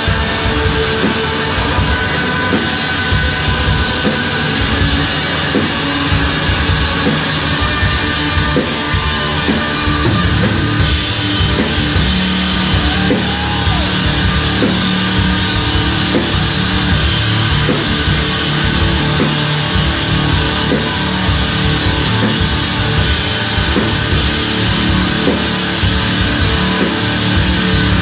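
Rock band playing live: electric guitars and a drum kit in a steady, heavy groove, the sound growing fuller and brighter about eleven seconds in.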